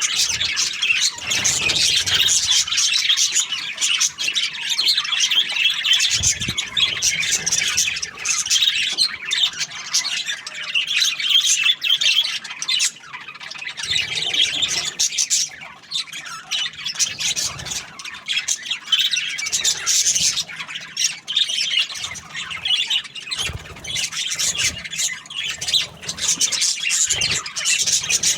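Budgerigars chirping and chattering continuously, a dense run of quick high-pitched chirps and squawks with no pauses.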